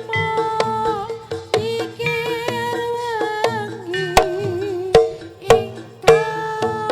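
Live East Javanese barongan accompaniment music: a held, wavering melody line over a steady drone, punctuated by hand-drum strokes, with a run of sharp drum hits in the second half.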